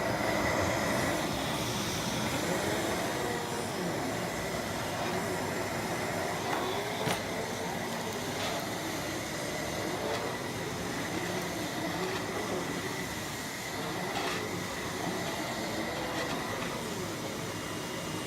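Miele Blizzard CX1 Cat & Dog bagless cylinder vacuum cleaner running steadily on carpet on its cat and dog setting. Its pitch wavers a little, with a thin high whine above the airflow noise and a few brief ticks.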